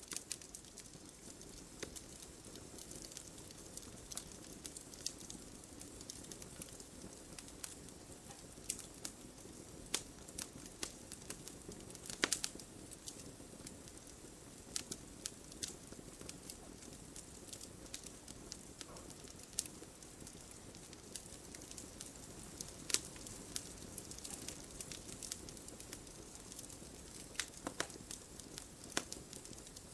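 Campfire burning: wood crackling with irregular sharp pops over a steady low rush of the flames, the loudest pop about twelve seconds in.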